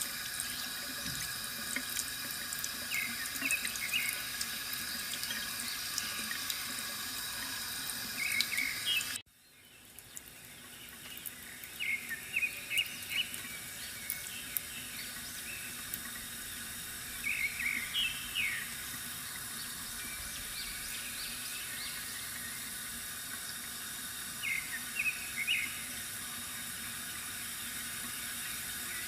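Bamboo water fountain trickling steadily, with small birds chirping in short bursts of quick notes every few seconds. The sound cuts out sharply about nine seconds in and fades back up over a few seconds.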